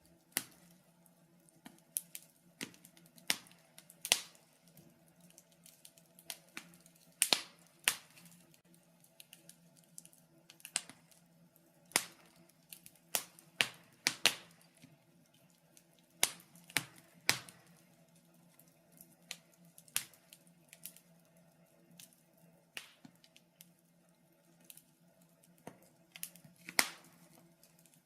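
Wood fire in a fireplace crackling: sharp, irregular pops and snaps, at times several a second and at times a second or two apart, over a faint steady hum.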